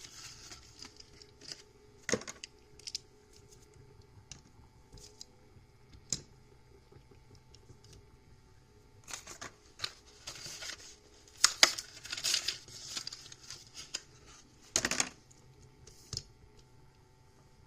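Hot Wheels carded blister packs being torn open by hand: irregular crinkling and tearing of plastic and cardboard with small clicks, busiest in the second half.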